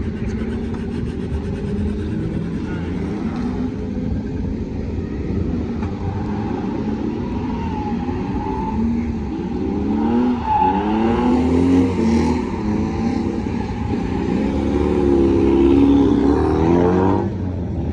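Nissan 240SX's turbocharged CA18DET four-cylinder engine, driven hard on a drift run. Its revs rise and fall repeatedly from about halfway through, with a brief drop near the end.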